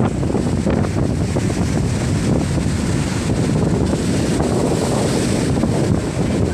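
Storm wind buffeting the microphone in a loud, steady, rumbling rush, with surf from the sea mixed in.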